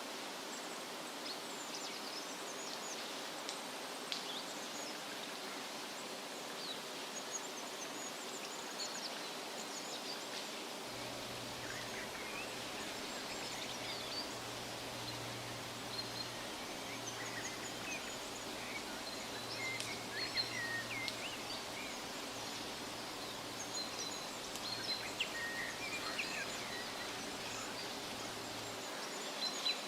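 Woodland ambience: a steady rustle of wind through leaves with many small birds chirping high and briefly throughout, busiest in the second half. A faint low hum comes in about a third of the way through and stops near the end.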